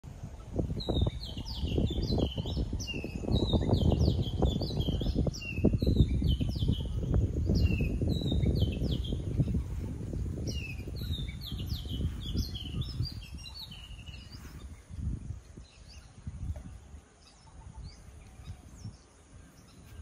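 Birds calling: many short chirps that sweep downward in pitch, repeating for the first fourteen seconds or so and then thinning out, over a loud low rumbling noise that also dies down in the second half.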